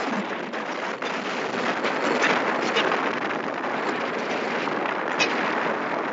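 Steady noise of a lorry driving on the road, with wind buffeting the microphone.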